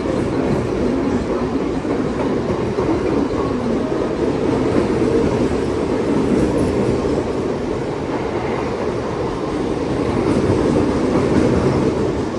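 Mumbai suburban local train, an electric multiple unit, running on the track with a steady rumble of wheels and carriages.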